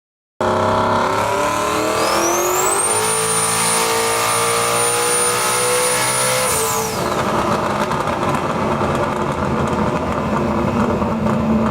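Car engine doing a full-throttle dyno pull: the revs climb steadily for about four seconds with a high whine rising alongside, then the throttle is lifted and the engine and rollers run down.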